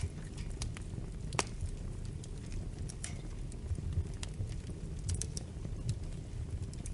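Wood fire crackling in a fireplace: scattered sharp pops and snaps over a low, steady rumble of the flames, with one louder pop about a second and a half in.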